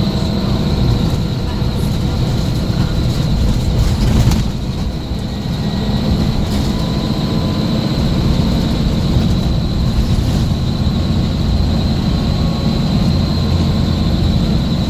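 Scania S400 coach running: a steady low engine rumble with a thin high whine above it, easing briefly about four seconds in.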